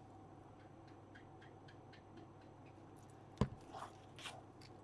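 Quiet hand handling of paper and card on a craft desk: faint rustles and small ticks, with one sharp knock about three and a half seconds in, then two soft rustles.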